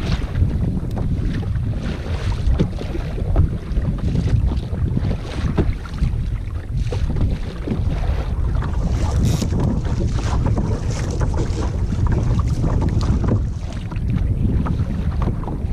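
Wind buffeting the microphone over water slapping against a kayak's hull, with many small irregular splashes and knocks.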